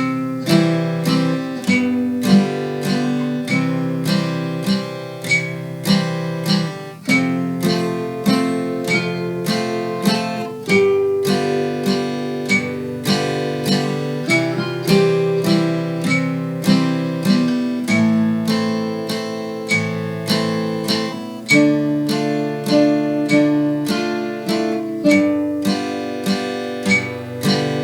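Acoustic guitar strummed in a steady waltz rhythm, a bass note followed by two chord strums in each bar ("쿵짝짝"), moving through a chord progression at a moderate tempo.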